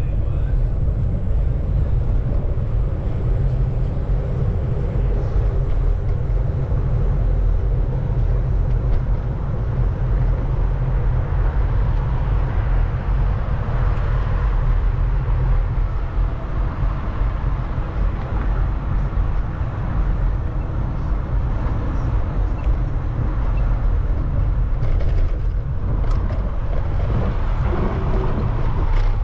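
Steady low wind rumble on the microphone with road noise from riding a bicycle along city streets.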